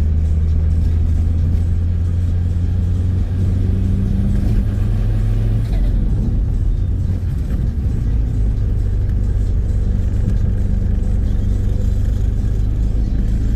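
Inside the cabin of a BMW 3-series Touring on the move: a steady low engine and road drone with the hiss of tyres on a wet road. The engine note shifts pitch a few seconds in.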